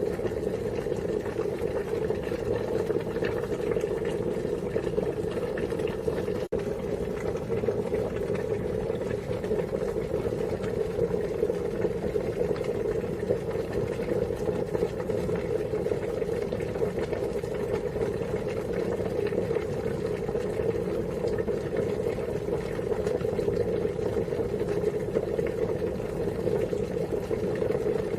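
Water boiling at a steady rolling boil, a continuous dense bubbling. There is a momentary break in the sound about six and a half seconds in.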